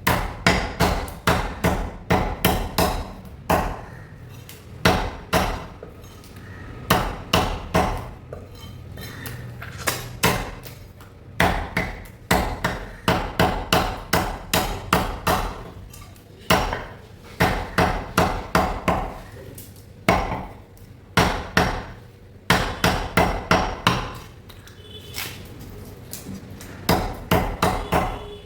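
A cleaver chopping through chicken: runs of quick hard strikes, about three or four a second, broken by short pauses.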